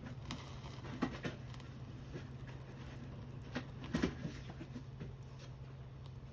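Small wood fire crackling, with sharp pops about a second in and a cluster around four seconds in, over a steady low hum.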